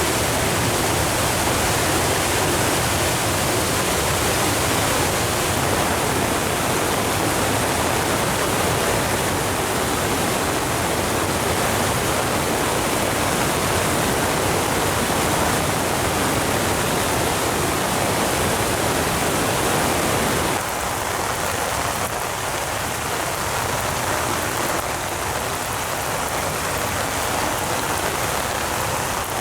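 Steady rush of a river in flood pouring over a waterfall, with rain. About two-thirds of the way in the sound changes abruptly, becoming a little quieter and thinner, more like rain falling.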